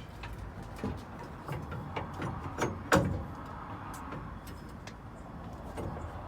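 Scattered metal knocks and clanks, the loudest a sharp knock about three seconds in, as a lift block is worked loose from between a pickup's rear axle and its spring with the U-bolts loosened.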